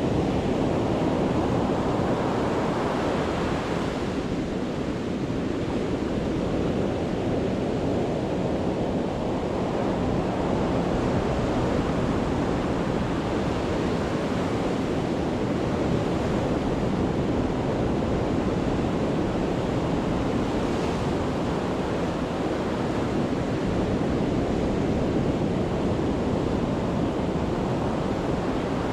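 Sea surf breaking on a beach at high tide: a continuous wash of waves that swells and eases over several seconds.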